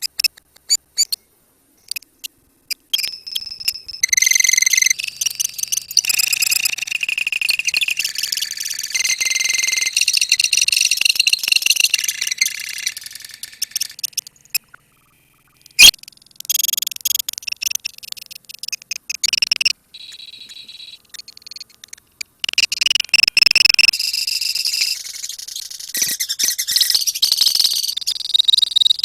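A colony of lovebirds chirping and trilling rapidly in high, shrill calls (the continuous 'ngekek' trill), breaking off briefly about halfway through with a sharp click as it resumes.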